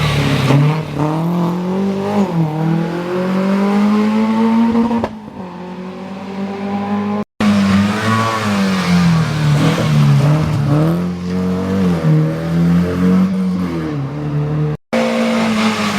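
Historic rally car engines at full stage pace, revving hard and lifting off, the pitch climbing and falling again and again with throttle and gear changes. The sound breaks off abruptly twice, for an instant each time.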